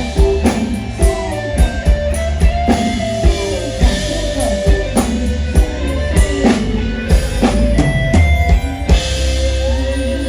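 Instrumental band music with no singing: a drum kit keeps a steady beat, about two strokes a second, under sustained guitar and a heavy bass line.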